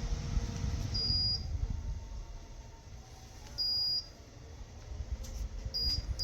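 Orteen 9-inch portable battery fan running, with a low rumble of moving air. Short high electronic beeps sound over it: one about a second in, a longer one near the middle, and a quick run of three near the end.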